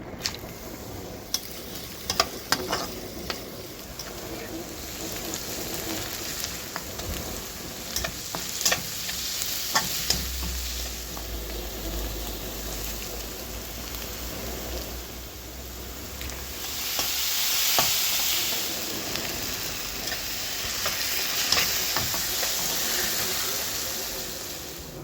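Vegetables sizzling as they fry in hot oil, with a spatula stirring and clicking against the pan. The sizzle swells louder twice in the second half.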